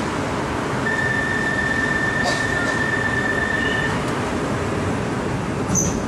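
Steady cabin noise inside a Bangkok MRT Purple Line train car standing at a station. A steady high tone sounds for about three seconds, starting about a second in.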